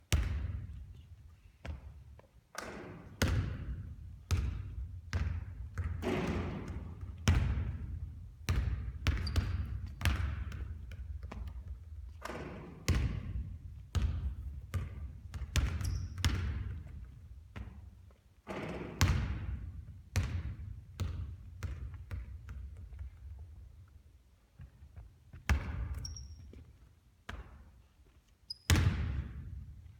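A basketball bouncing on a hard court in a gym: a steady run of sharp, irregular bounces, roughly one or two a second, each with a short echo.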